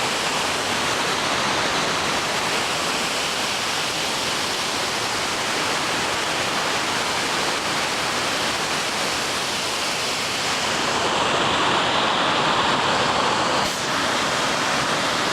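Aras Waterfall's water falling onto rock: a steady rush that grows a little louder and brighter about eleven seconds in.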